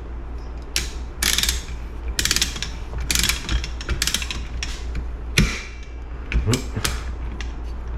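Ratchet head of a torque wrench clicking in a series of short bursts, with a few sharper metal knocks among them.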